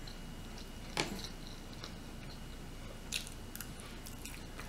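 A person chewing a mouthful of shrimp close to the microphone, with scattered wet mouth clicks, the sharpest about a second in.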